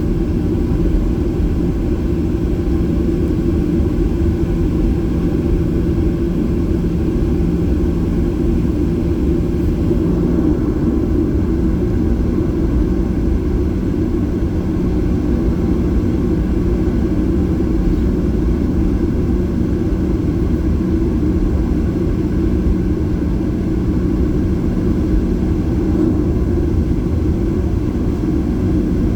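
Boeing 737-800's CFM56 jet engines at low taxi power, heard inside the cabin as a steady, loud rumble with a constant low hum.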